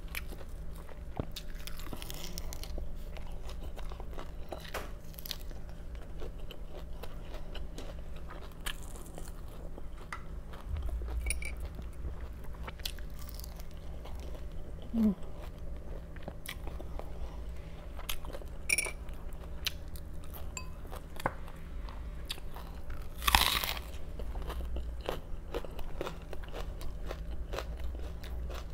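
Close-miked mukbang eating: crunchy raw vegetables being bitten and chewed, a run of small crisp crunches with one louder crunch about two-thirds of the way through.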